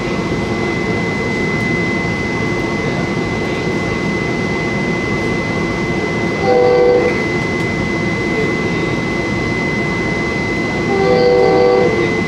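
Commuter rail coach running at speed, heard from inside the car: a steady rumble from the wheels and track, with a constant high-pitched tone. The train's horn sounds twice, a short blast about halfway through and a longer one near the end.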